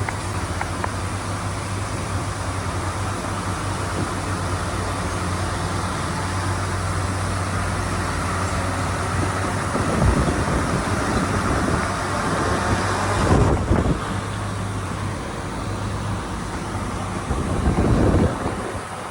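Heavy diesel earthmoving machinery running steadily with a low engine hum, with louder rumbling surges about halfway through, a little later, and near the end.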